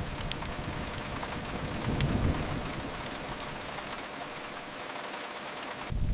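Steady hiss of rain with a few sharp fireplace crackles near the start and about two seconds in, and a low rumble that swells around two seconds then fades. Just before the end the deep rumble and crackling come back suddenly and louder.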